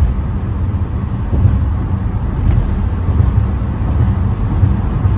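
Road noise of a car driving along a highway: a steady low drone of engine and tyres with no distinct events.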